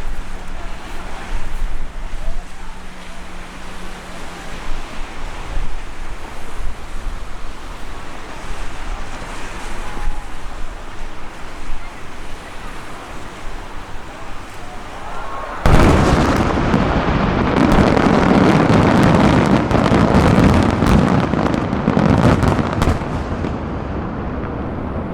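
Aerial fireworks bursting with scattered booms, then about 16 s in a sudden dense barrage of overlapping bursts and crackling that keeps going almost to the end.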